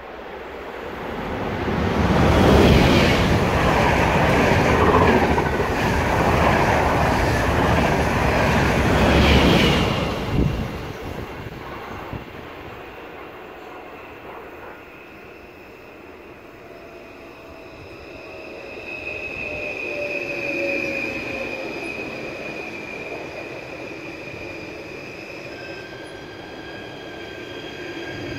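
A passenger train passes through at speed, a loud rush of wheels on rail lasting about eight seconds. After it, an NS Sprinter electric multiple unit runs in to stop, its motor whine falling in pitch, with a high brake squeal in the latter half.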